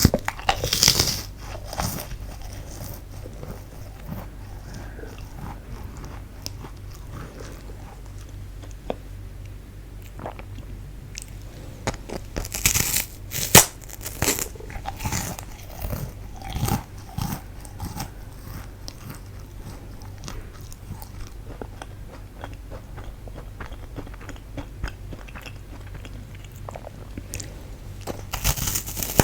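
Fu-gashi, a baked wheat-gluten snack, being bitten and chewed close to the microphone. There are crisp, crunchy bites near the start, around the middle and near the end, with softer chewing between them.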